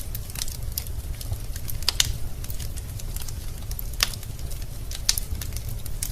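Wood fire burning in a fireplace: a steady low rumble of flames with irregular sharp crackles and pops from the burning logs, the loudest about two, four and five seconds in.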